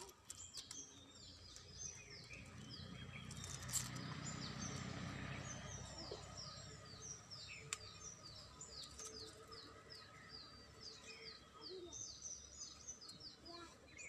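Small birds chirping in quick runs of short, high, falling notes, with a low background rumble that swells and fades in the middle.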